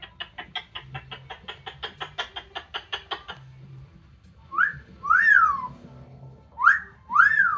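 Amazon parrot calling: a rapid run of clicky chatter notes, about six or seven a second, for about three seconds, then two loud whistled phrases, each a short rising note followed by a longer whistle that rises and falls.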